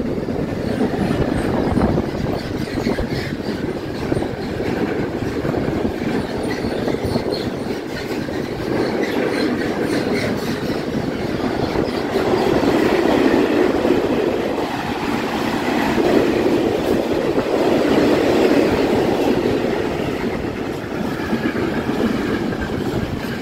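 Freight train wagons (empty container flat wagons and tank wagons) rolling past close by: a steady, loud rumble with the wheels clattering over the rail joints.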